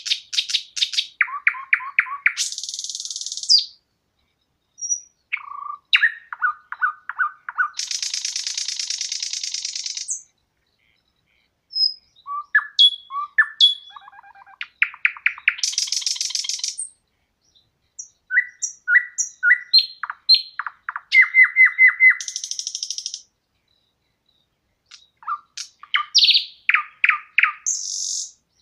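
Songbird singing, a run of phrases made of quick repeated notes and fast buzzy trills, each a few seconds long, with short silent pauses between them.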